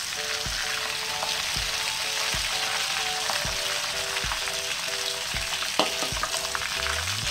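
Prawns frying in hot oil in a wok, a steady sizzle, as they are lifted out with a wire spider strainer. Background music with a steady beat plays underneath, and a single sharp click comes near the end.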